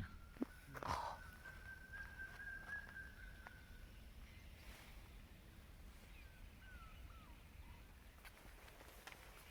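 Faint bird calls: one long thin whistled note held steady for about four seconds, then a couple of short sliding calls a few seconds later, with a brief rustle about a second in.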